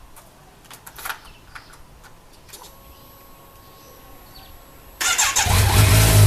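A few light clicks, then about five seconds in a Kawasaki Z900's inline-four is started: a brief burst of starter cranking, and the engine catches and runs loudly.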